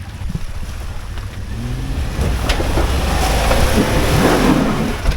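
Off-road SUV engine revving up under load as it tries to climb a dirt obstacle, with a rush of noise that swells and peaks near the end.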